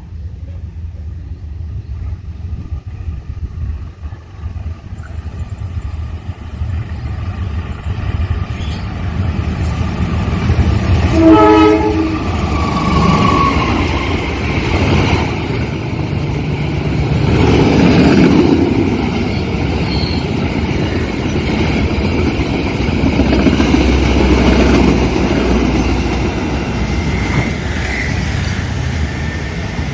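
Diesel-electric locomotive hauling a passenger train: the engine's low running rumble as it approaches, a short horn blast about eleven seconds in, then the loud rush and rail clatter of the locomotive and coaches passing close by.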